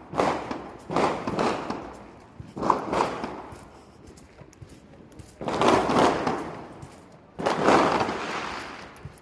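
Fireworks going off in a string of bangs, about five, each with a rumbling echo that fades over a second or so; the two loudest come about halfway through and near the end.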